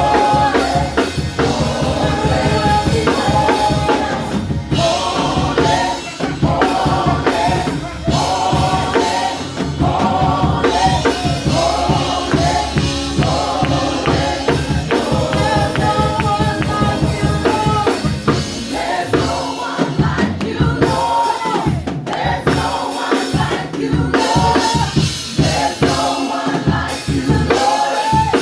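Live gospel worship music: voices singing held melodic lines over a band with a steady drum beat.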